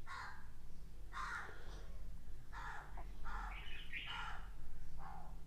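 A black felt-tip marker drawn across paper in about seven short strokes, each under half a second.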